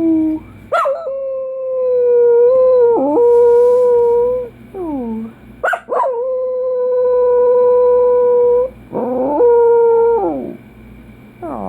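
Dachshund howling: three long howls, each held at a steady pitch for about two seconds and dropping off at the end, with short falling whines between them.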